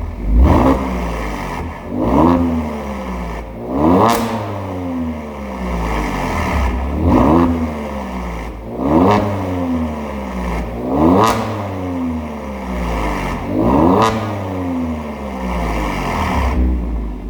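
Kia Stinger with an aftermarket Maintec V4 variable exhaust, its engine revved in about seven quick throttle blips, each pitch shooting up and then falling back to idle.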